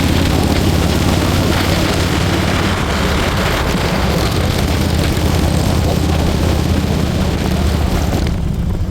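Motorcycle engine running steadily on the road, under heavy wind rush over the microphone.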